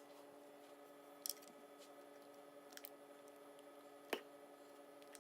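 A quiet room with a steady faint hum, broken by a few brief clicks and scrapes of an ice cream scoop portioning cake batter into silicone cake pans.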